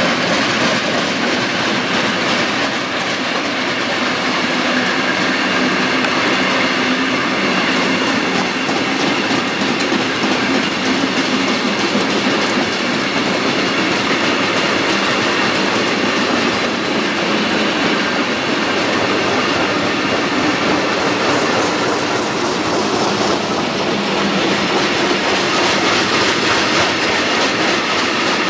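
Long freight train of hopper wagons passing close by, a steady rolling noise of steel wheels on the rails that carries on without a break.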